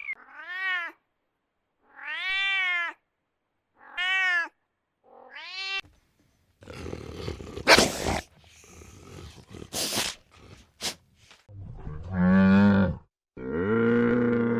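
Animal calls: four short meow-like cries that rise and fall in pitch, each under a second, then a stretch of rough snorting and sharp clicks, and near the end a low drawn-out moo.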